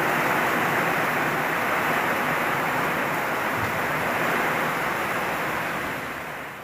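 Heavy rain pouring down in a dense, steady hiss during a hailstorm, fading out near the end.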